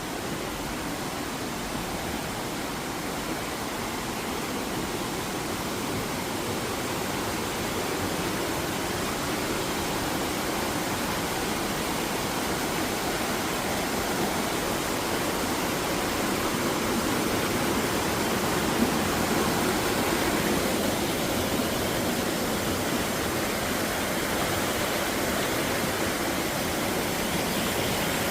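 Steady rush of falling and flowing water in a mountain gorge, an even noise that grows a little louder over the first twenty seconds.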